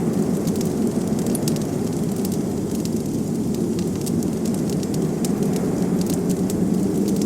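Wood fire crackling with scattered sharp pops, over a steady low rush of blizzard wind.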